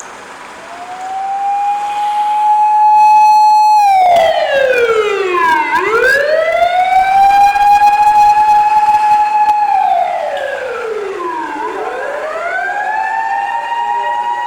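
Fire engine siren winding up and down in long wails. It rises about half a second in and holds steady, sinks to a low point twice, near six and near twelve seconds in, and winds back up each time.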